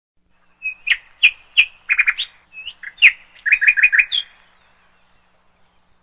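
A bird chirping: a string of sharp, quick chirps, with fast runs of four notes about two seconds in and again near four seconds, stopping after about four seconds.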